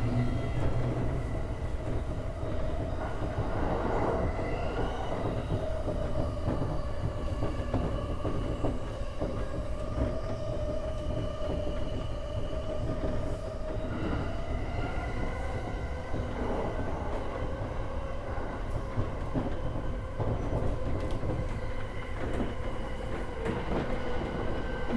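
E231-1000 series electric train running on the line, heard from inside the front car: a steady rumble of wheels on rails with several held tones above it.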